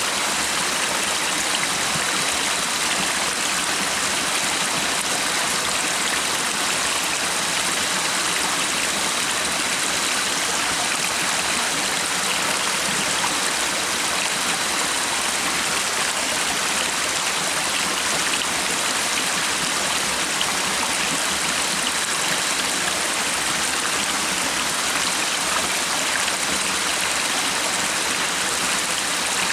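A stream running steadily, an even rushing of flowing water with no pauses or surges.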